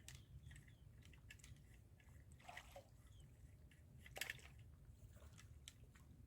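Faint small splashes and drips of water, with a slightly louder splash about four seconds in.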